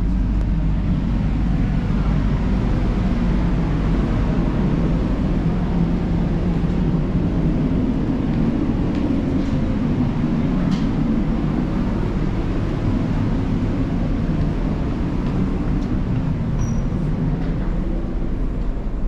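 Steady low rumble of a large diesel engine running, unchanging in level, with a few faint clicks over it.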